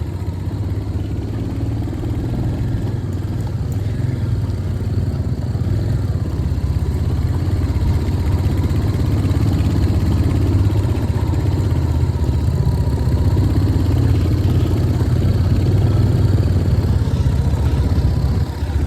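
Royal Enfield Hunter 350's single-cylinder engine running as the motorcycle is ridden, a steady low engine note that grows gradually louder and eases off near the end.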